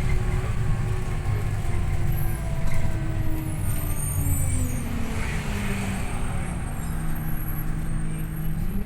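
Scania OmniLink I city bus running under way, heard from on board: its drivetrain whine falls steadily in pitch as the bus slows, then starts to rise again at the very end as it picks up speed.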